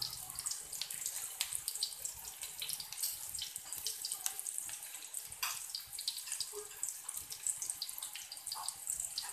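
Sliced shallots frying in hot oil in a wok: a steady sizzle full of fine crackles.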